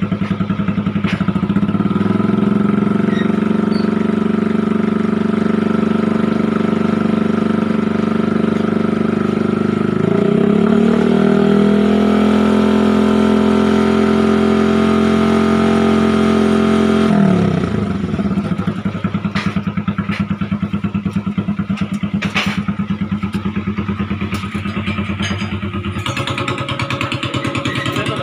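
Motorcycle engine running through a shop-made aftermarket muffler during an exhaust test: idling steadily, then revved up about ten seconds in and held at higher revs for several seconds before dropping back to idle.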